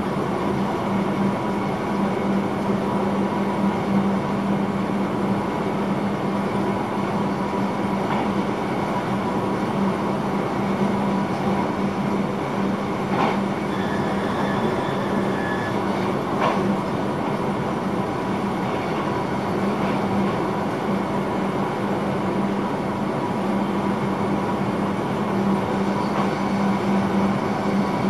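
Running noise of an electric passenger train heard from inside the driver's cab at speed, with a steady low hum throughout. About halfway through come two short knocks, as the train runs over a level crossing, and a brief high tone between them.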